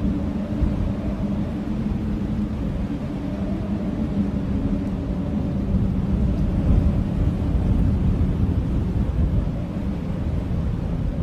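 Blizzard wind blowing steadily with a deep rumble, a low howling tone sounding through it for the first half before fading out.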